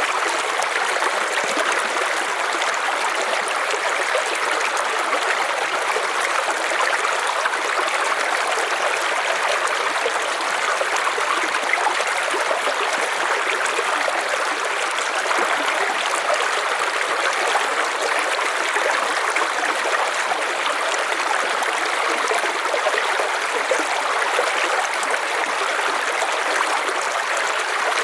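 River water flowing steadily over stones, a continuous rushing and gurgling without pause.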